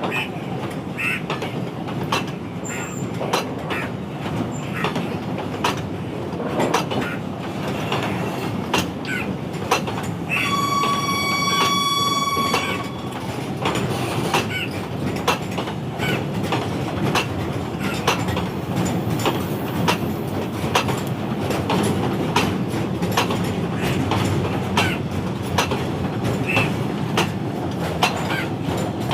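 Freight train wagons rolling past with a steady rumble and frequent clicks of wheels over rail joints. A high steady tone sounds for about two seconds midway.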